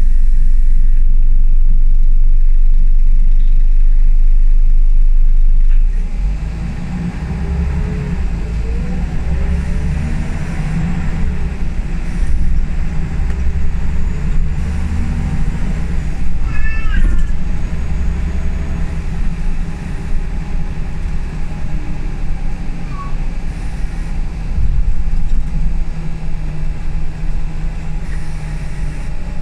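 Scania L94UB single-decker bus heard from inside while on the move. The engine and drivetrain run with their pitch climbing and falling as the bus accelerates and changes gear. A very loud, deep rumble fills the first six seconds, and a short high squeak comes about halfway through.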